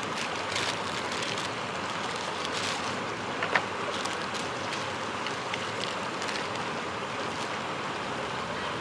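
Jetboil propane stove burner running with a steady hiss while it heats water, with a few light clicks and a short tick about three and a half seconds in.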